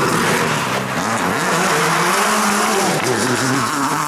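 Competition rally car driven hard, its engine revving up and dropping back through gear changes about one and three seconds in, over loud tyre and road noise.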